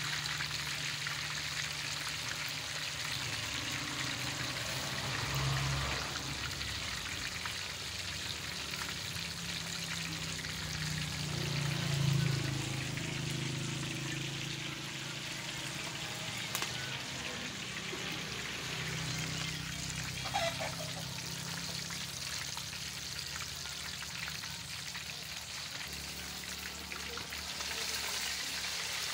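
Fish pieces deep-frying in hot oil in a large iron karahi, a steady hiss, with a low hum underneath.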